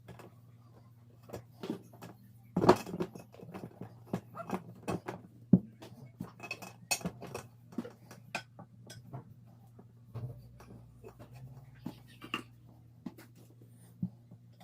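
Metal tools and parts clinking and knocking irregularly during a tyre change, with sharper knocks about two and a half and five and a half seconds in.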